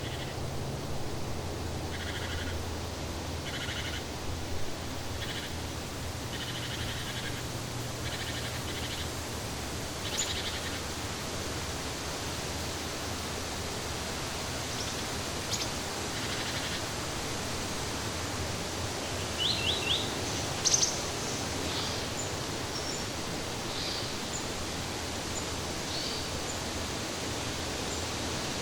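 Jungle ambience: a steady hiss with scattered bird calls. Short chirps repeat in clusters through the first several seconds, and higher, sharper calls come singly later on.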